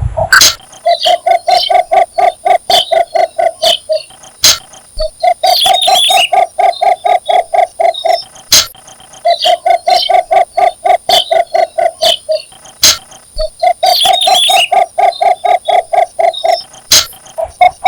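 Cinnamon bittern giving its mate-seeking call: fast runs of short, even, low notes, about six a second. There are four bouts of roughly three seconds each, separated by brief pauses.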